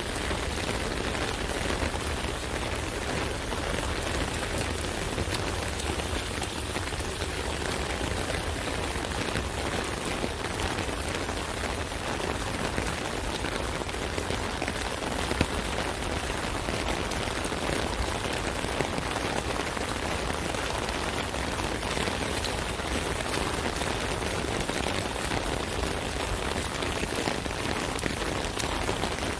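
Steady rain drumming on an umbrella canopy, a dense patter of drops with occasional sharper taps.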